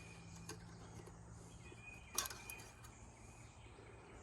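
Faint outdoor ambience: light bird and insect chirping over a steady low hum, with a sharp click about two seconds in.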